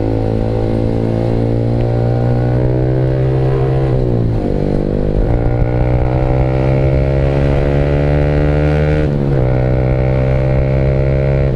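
Yamaha R15 V3's 155 cc single-cylinder engine through an aftermarket SC Project-style exhaust, accelerating through the gears. The pitch climbs steadily and drops sharply at two upshifts, about four and nine seconds in.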